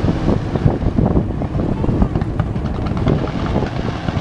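Wind buffeting the microphone: a dense, loud low rumble broken by irregular thumps.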